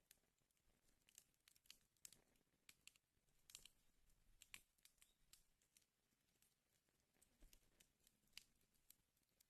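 Fire in a fireplace crackling faintly, with irregular small pops and snaps over a soft hiss.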